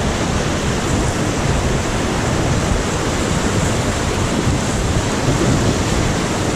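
Whitewater river rushing: a steady, loud wash of churning water with a deep rumble underneath, heard from a raft running through the current.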